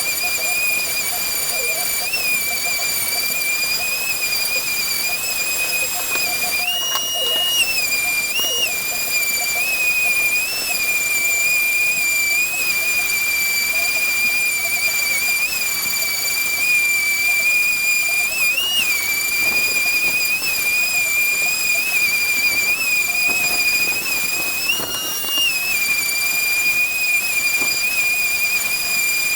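Electric sander running on wood: a steady high-pitched motor whine over a sanding hiss. The whine jumps briefly higher in pitch a few times.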